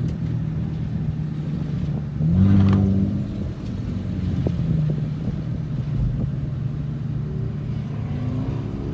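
Car engine running steadily, with a brief rise in revs about two seconds in as the car accelerates, and the revs climbing again near the end.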